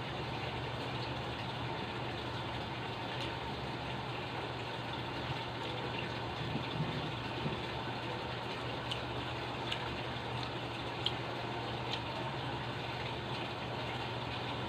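Steady rushing background noise with a low hum, and scattered light clicks and taps of eating: chewing and utensils against a plate.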